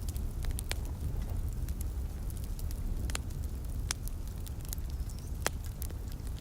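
Wood fire in a fireplace crackling, with about four sharp pops standing out against many faint ticks over a steady low rumble, and a light patter of rain underneath.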